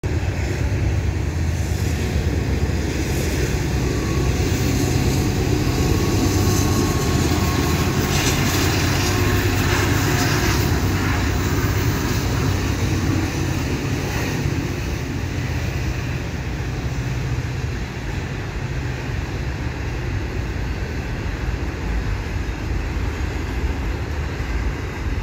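A Canadian Pacific freight train passing: its diesel locomotives, a GE AC4400CW and two EMD SD70ACUs, running with a steady, heavy rumble, then the long rolling rumble of double-stack container cars going by, a little quieter over the second half.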